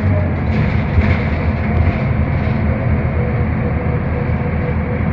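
Scania K320UB hybrid bus on the move, heard from inside: a steady low rumble of drivetrain and road noise with a faint steady whine and a few light rattles.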